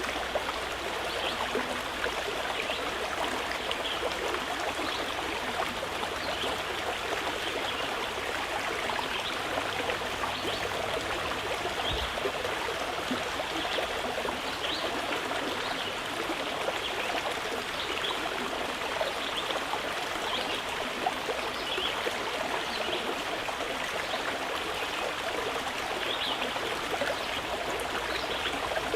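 Mountain river running steadily, an even unbroken rush of flowing water.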